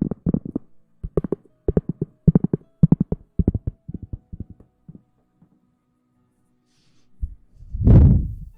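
Close-miked ASMR rustling and rubbing: quick clusters of low, muffled thumps, a pause of about two seconds, then one deep muffled swell near the end.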